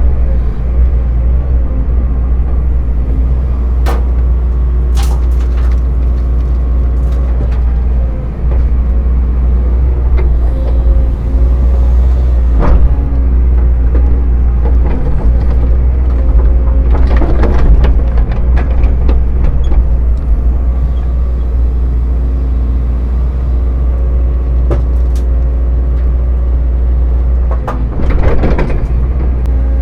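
Heavy-equipment diesel engine running steadily with a strong low rumble. Occasional sharp clanks and scrapes are heard a few times over it, louder around the middle and near the end.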